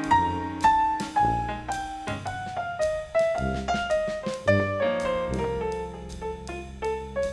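Jazz ensemble music: a keyboard with a piano sound plays a melody in quick struck notes over bass and drums.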